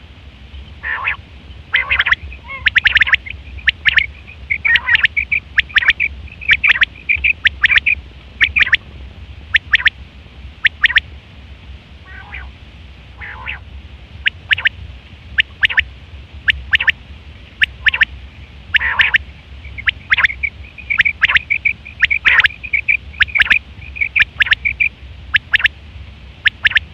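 Quail calling: loud, sharp, clipped notes repeated every second or so, broken by quick runs of rapid notes, over a steady low hum.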